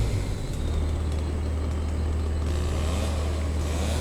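Cargo boat's engine running with a steady low drone that drops slightly in pitch about half a second in.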